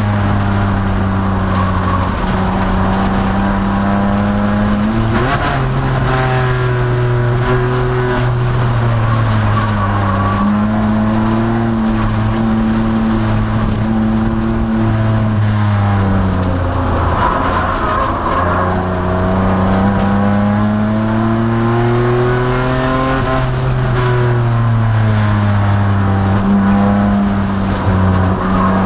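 The 2002 Nissan Maxima race car's V6 engine, heard loud from inside the car while it is driven hard on track. The engine note climbs slowly, then drops sharply several times, as the car accelerates, brakes and changes gear.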